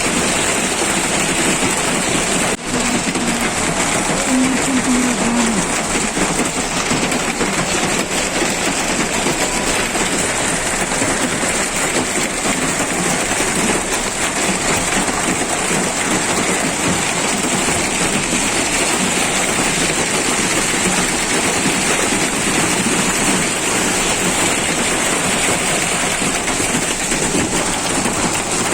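Hail and rain pelting down in a loud, steady, dense patter.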